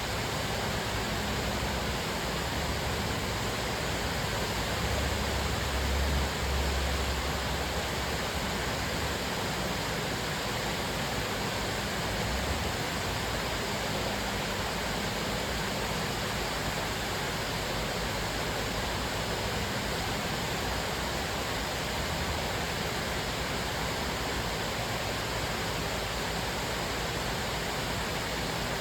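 Cascading waterfall: a steady, even rush of falling water, with a low rumble that swells briefly about five seconds in.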